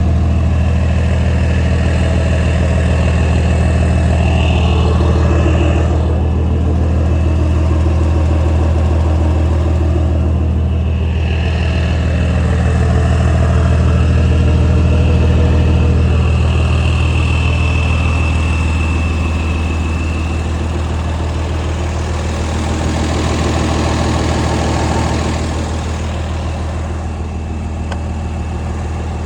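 Ford Cargo 1932 tractor truck's diesel engine idling steadily, with a thin high whistle rising over it for several seconds in the middle.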